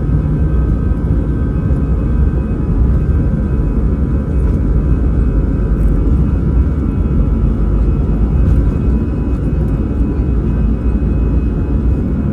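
Airbus A320 jet engines heard from inside the cabin while the aircraft is under way on departure: a loud, steady deep rumble with a few thin, steady high whining tones over it.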